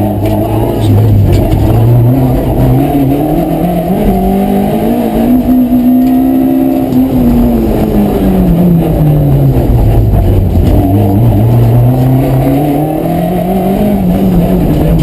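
Rally car engine running hard and continuously, its pitch climbing over the first several seconds, dropping away, then climbing again and dipping near the end as the car accelerates and slows through the stage.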